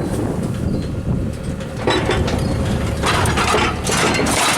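Farm tractor engine running at a low idle, with crunching and scraping noises coming in from about two seconds in and loudest near the end.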